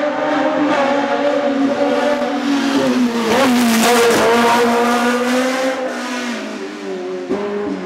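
Classic racing car engine running at high revs, its pitch slowly sagging and then dipping and rising sharply about three and a half seconds in, like a gear change. It is loudest around four seconds in.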